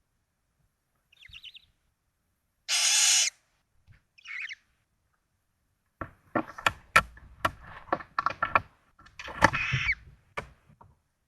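Barn owls in a nest box: a brief high chitter, then a loud rasping hiss-like call lasting under a second and another short call. Then comes a run of sharp knocks and scuffs, with a second hissing call near the end.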